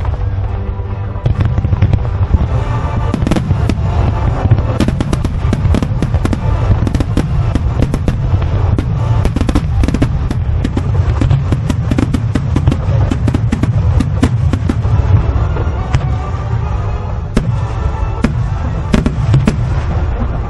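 Fireworks starmine barrage: shells launching and bursting in rapid succession, many sharp cracks and booms a second over a continuous deep rumble. It thickens about a second in.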